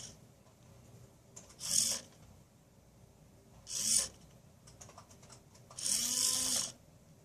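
Small servo motor whirring through its gears in three short moves, the last the longest, as it turns the filter lenses into place in front of the infrared camera.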